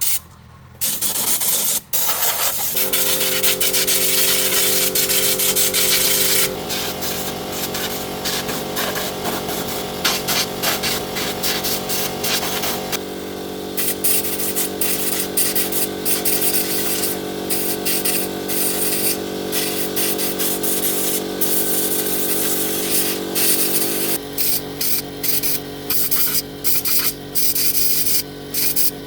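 Electric power tool with a steady motor whine, abrading a surface as in sanding or grinding. It starts about a second in, cuts out briefly, then runs on, its pitch and load shifting several times.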